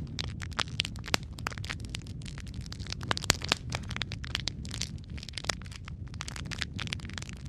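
Wood fire crackling in a fireplace: a steady low rumble of flames under many irregular sharp pops and snaps, a few louder cracks about a second in and past the three-second mark.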